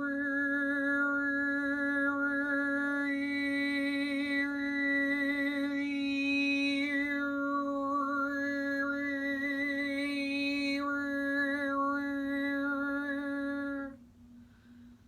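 A woman's voice overtone singing: one long note held at a steady pitch while the higher overtones shift up and down, picking out a whistling melody above the drone. The note stops about 14 seconds in.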